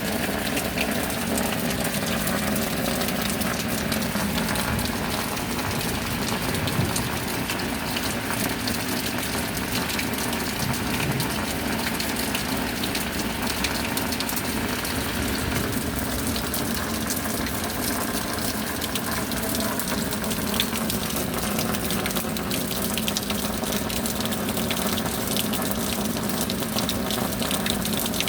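Steady rainfall, a continuous even patter and hiss of falling rain with no breaks or changes.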